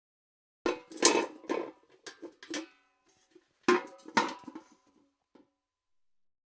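Steel bucket clanking: a quick cluster of knocks and rattles, a short pause, then two strong clanks with a brief metallic ring and a few lighter knocks.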